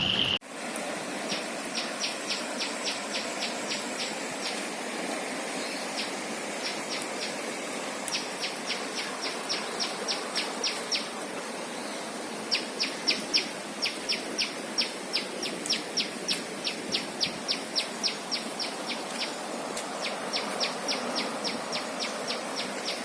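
Rapid runs of short, sharp, high chirps, about four a second, repeating in bursts of several seconds with brief gaps. Under them is the steady rushing hiss of a river in flood.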